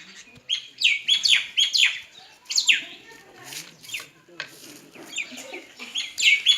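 A flock of small birds chirping while feeding: many quick, sharply falling chirps overlapping in clusters, thinning out in the middle and building again near the end.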